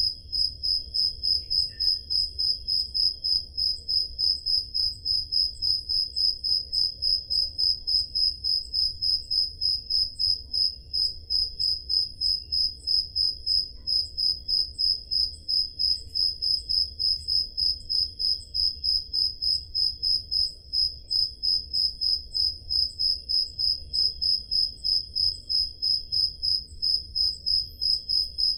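Crickets chirping on a summer night: one loud high-pitched chirp repeating at a steady, even rhythm, with fainter, higher chirps from other crickets behind it.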